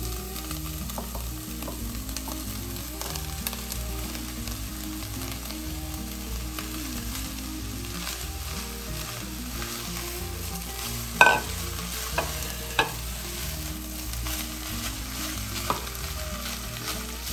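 Shredded cooked chicken frying in a pot with sautéed onion and garlic, sizzling steadily as a silicone spatula stirs and scrapes it. A few sharp knocks of utensils on the pot, the loudest about eleven seconds in.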